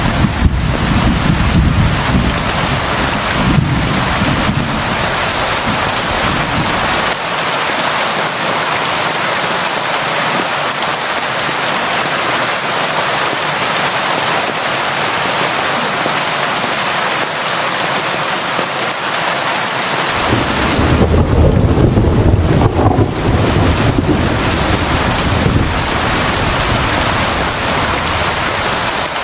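Steady, heavy rain hissing on surfaces. Low rolling thunder rumbles under it for the first several seconds, and again from about two-thirds of the way through.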